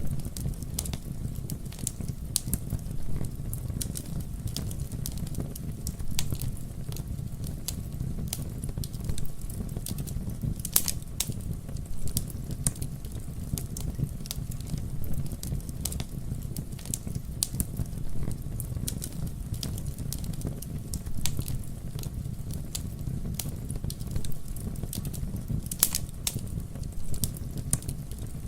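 Wood fire burning with a steady low rumble and frequent irregular crackles and pops, a few sharper snaps standing out.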